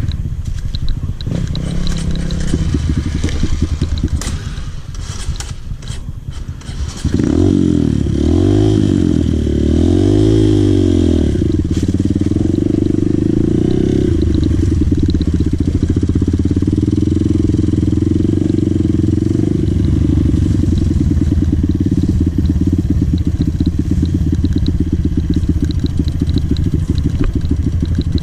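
Dirt bike engine running low with some clattering and scraping, then about seven seconds in it is revved up and down twice and settles into steady running under way.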